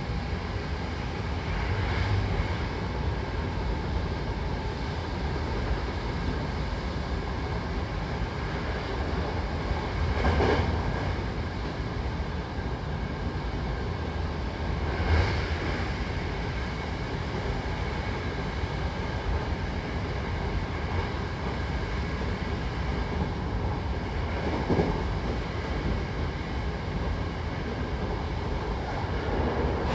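Inside a Hankyu Takarazuka Line electric train running between stations: the steady rolling rumble of the car on the track. It swells louder for a moment a few times, most strongly about 10 and 15 seconds in.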